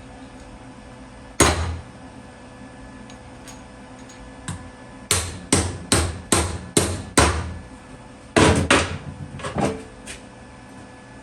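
Hammer blows on a steel exhaust tube, struck to open the tube up slightly: a single blow, then a run of six evenly spaced strikes, then a few more near the end.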